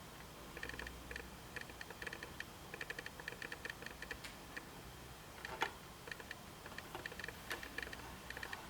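Faint, quick runs of small metallic clicks, with a few sharper single clicks in the second half, from parts being worked by hand as the steering wheel is fitted onto the column.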